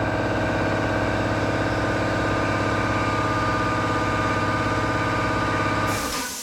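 Shop air compressor running steadily with a fast pulsing hum, then shutting off about six seconds in with a short hiss of released air, as it does on reaching its cut-out pressure.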